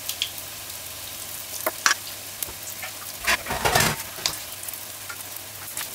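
Saltfish fritters frying in hot oil in an aluminium pot: a steady sizzle with scattered sharp pops and crackles. A little past halfway there is a louder, rougher burst lasting under a second.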